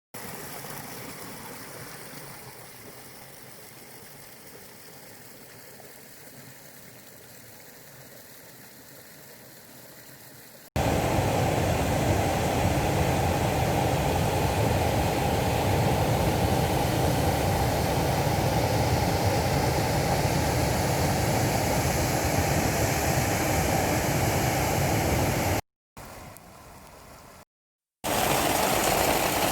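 Steady rushing noise of rain and running water in several joined clips: fainter for about the first ten seconds, then much louder, broken by two short cuts near the end.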